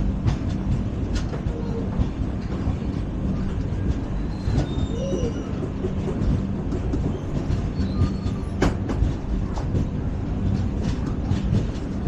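LHB passenger coach running at speed on the track: a steady rumble from the running gear with frequent short knocks and rattles, one sharp knock about three-quarters through, and brief faint squeals near the middle.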